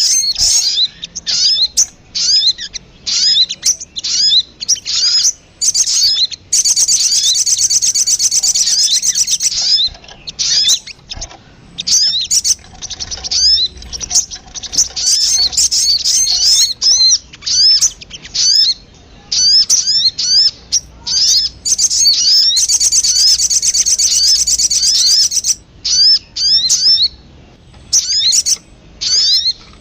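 Lure recording of sogon bird calls: rapid, high, sharp chirps repeated in quick series, broken twice by a dense trill lasting about three seconds, once about a quarter of the way in and again near three-quarters.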